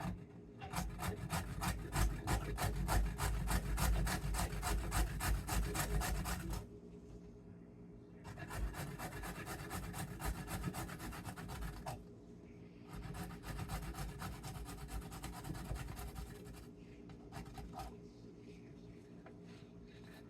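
A carrot being grated by hand: rapid, even rasping strokes in three bouts with short pauses between, the first bout the loudest.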